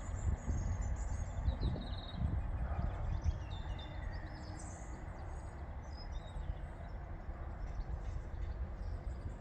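Small birds chirping and twittering over a steady low rumble.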